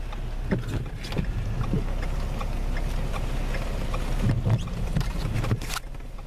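Road and engine rumble inside a moving vehicle, with wind noise and scattered light taps. There is a brief louder rush of noise near the end.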